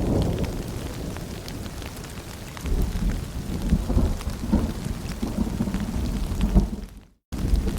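Rain falling with low rolling thunder: the rumble eases off, then swells again about three seconds in, with scattered drops ticking over it. The sound cuts out completely for a moment near the end.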